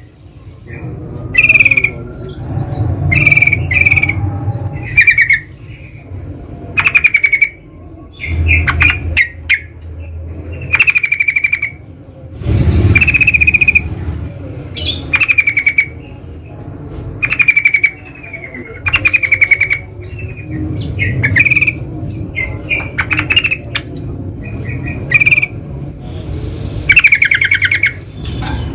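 Yellow-vented bulbul (trucukan) calling in short, loud, bubbling chattering phrases, repeated every second or two, over a low rumble.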